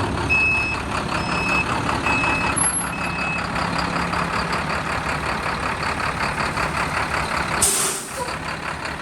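International 4300 diesel truck's reversing alarm beeping steadily over the running engine, the beeps stopping about three seconds in as the truck stops backing. Near the end comes a short, sharp hiss of air from the air brakes, and the engine carries on idling.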